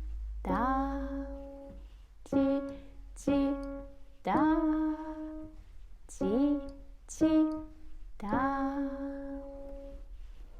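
Piano notes on two black keys played in a simple rhythm of long and paired short notes, with a voice singing along on each note.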